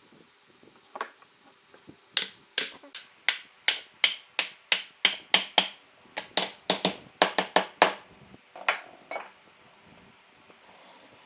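Hammering on wood: a quick run of about fifteen sharp strikes at roughly three a second, then two more after a short pause.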